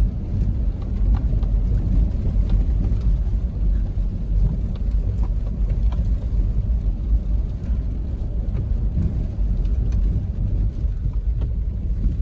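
Off-road 4x4 driving on a trail: a steady low rumble of engine and tyres, with a few faint clicks scattered through it.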